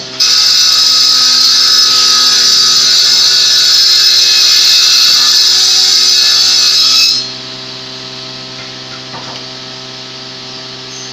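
Power tool running on wood for about seven seconds with a steady, high-pitched noise, then stopping suddenly.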